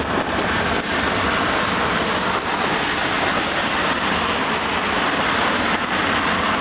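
Steady hiss of car tyres on wet asphalt, with traffic noise.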